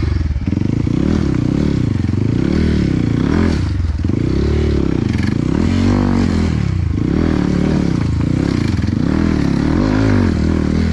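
Trail motorcycle engine running under load, its pitch rising and falling every second or two as the throttle is worked, with some rattle from the bike over rough ground.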